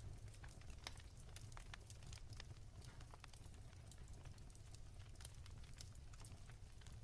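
Wood fire crackling softly: irregular small pops and snaps of burning firewood over a low, steady rumble.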